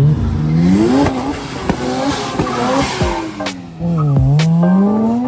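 A car engine revving hard, its pitch climbing over the first second, then falling and climbing again over the last second and a half. There is a hiss and a few sharp cracks near the end.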